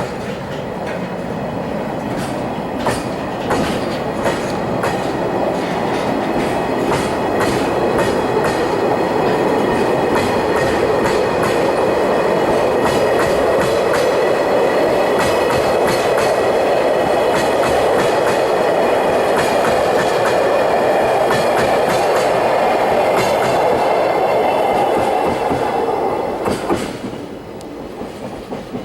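Freight train of oil tank wagons rolling past, its wheels clattering over rail joints in a dense run of clicks over a steady rumble. The sound builds over the first several seconds, holds, then drops away sharply near the end.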